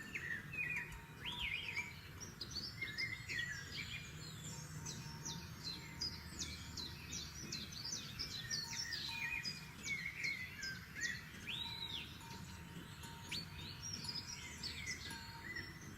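Several forest songbirds singing and chirping at once: dense, overlapping quick notes and short trills, with an occasional clear arching whistle, over a steady low background hum.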